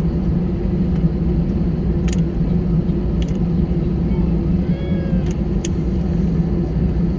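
Steady low engine hum and rumble heard from inside a vehicle, with a few faint clicks.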